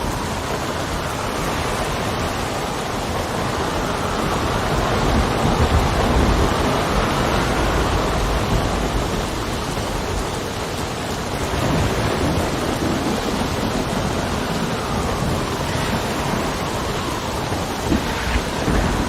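Steady heavy rain with wind gusting, the wind rising and falling slowly. Low rumbling swells come a few seconds in and again past the middle, and a couple of sharp taps come near the end.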